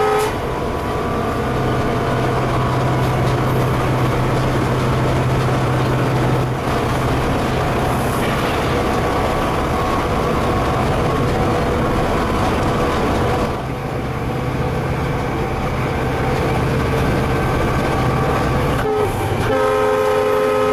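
Train noise with the steady low drone of a locomotive, broken by short dips. Near the end the locomotive's multi-tone horn sounds a long chord.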